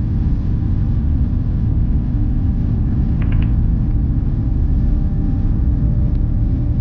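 Steady low rumble of an Airbus A350-900 cabin in flight, engines and airflow heard from an economy seat. Three brief faint clicks come about three seconds in.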